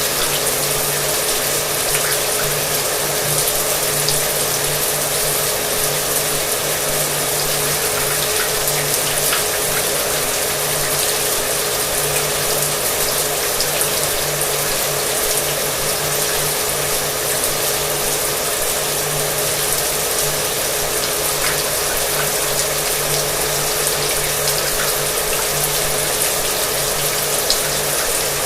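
Shower water running with a hair dryer blowing behind it: a steady hiss with a constant motor hum underneath.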